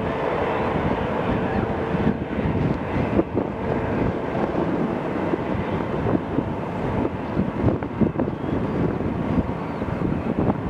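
Jet airliner engine noise mixed with wind buffeting the microphone, a steady rush with uneven gusts; a faint steady whine fades out about three seconds in.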